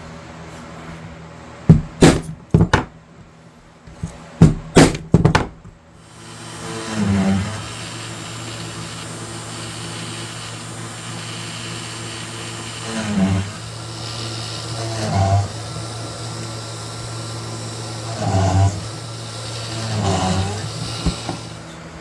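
A few sharp metal-on-metal knocks in two quick groups, like hammer strikes. A power tool then starts and runs steadily with a low hum, swelling five times as the work is pressed against it, and stops just before the end.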